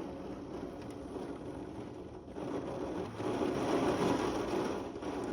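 Heavy rain pouring down, a steady hiss that swells louder past the middle and then eases slightly.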